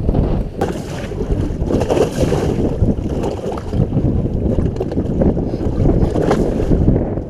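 Strong wind buffeting the microphone, a low rumbling roar with brief crackles, over choppy water.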